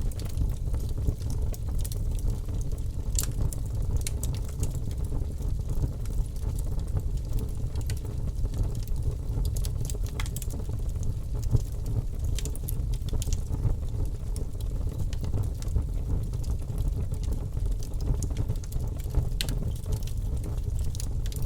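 Logs burning in a fireplace: a steady low rumble of the flames with irregular sharp crackles and pops from the wood.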